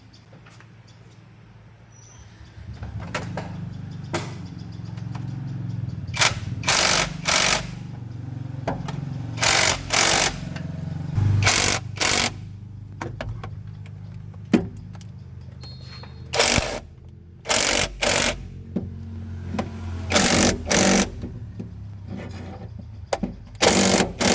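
A machine starts up with a steady low hum about two and a half seconds in. Over it, a power tool gives about a dozen short, loud bursts, often two at a time, each about half a second long.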